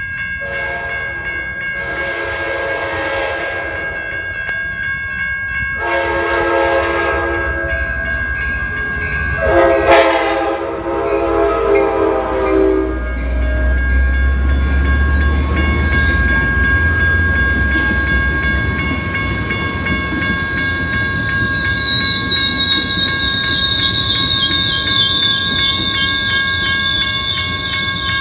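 Sounder commuter train sounding three long horn blasts as it approaches over a steady high ringing. Its diesel locomotive then rumbles past, and the double-deck coaches roll by with a high wheel squeal in the last few seconds.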